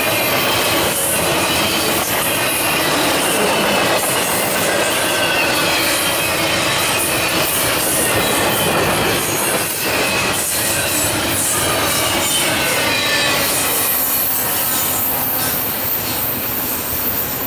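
Freight cars rolling past on steel wheels, with a wavering high squeal of wheels on rail and occasional clacks over rail joints.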